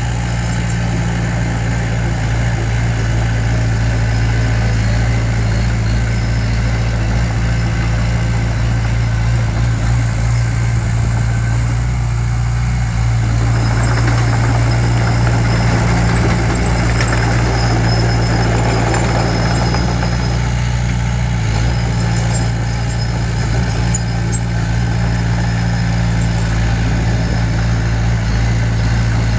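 Heavy-equipment diesel engine running steadily, with a rougher, noisier stretch about halfway through.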